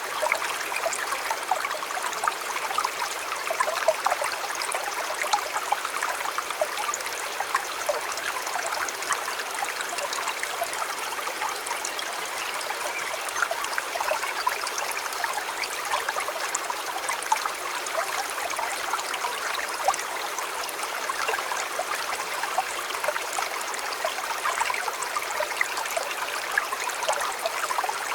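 A shallow river or stream flowing steadily over rocks, a continuous babbling and trickling with many small splashes.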